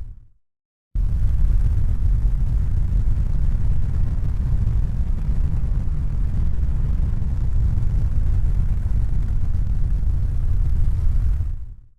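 Steady deep rumbling noise with no distinct tones or knocks. It fades to silence at the start, cuts back in about a second in, and fades out again near the end.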